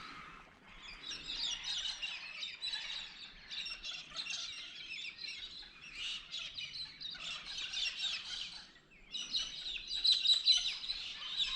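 A dense chorus of many birds chirping and calling over one another, with a brief lull about nine seconds in.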